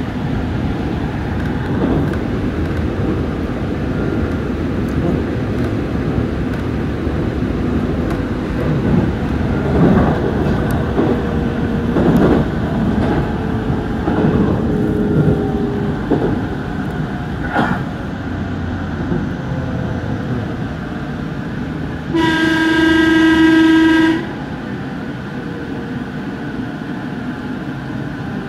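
JR Central 313 series electric train running, heard from the front cab: a steady rumble with scattered clicks and rattles from the wheels and body, and a faint whine that slowly falls in pitch. About two-thirds of the way through, the train's horn sounds loudly for about two seconds.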